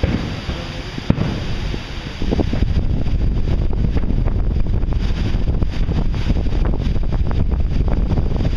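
Fireworks shells bursting with sharp bangs in the first two seconds. Then, about two seconds in, strong wind starts buffeting the microphone as a loud low rumble that swamps the later bursts.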